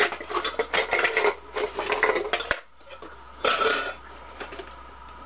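Lightweight metal camping cookware clinking and clattering as it is handled, then a short scraping rustle about three and a half seconds in.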